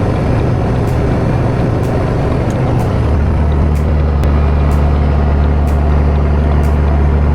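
Fishing boat's engine running steadily with a loud low hum, which becomes stronger and steadier about three seconds in.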